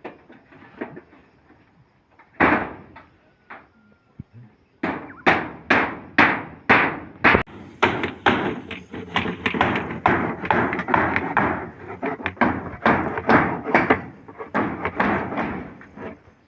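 A series of sharp knocking strikes, a few scattered at first, then a steady run of about two a second from about five seconds in, each with a short ringing tail.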